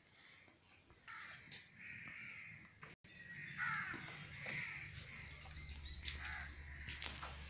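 Birds calling outdoors with repeated harsh, caw-like calls, starting about a second in over a thin, steady high-pitched whine.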